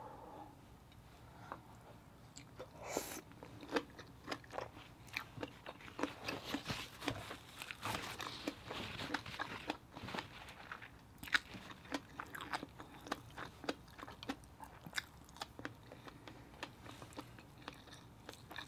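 Close-up chewing of shrimp dipped in fish-egg sauce: quiet wet mouth sounds broken by many small irregular clicks and crunches.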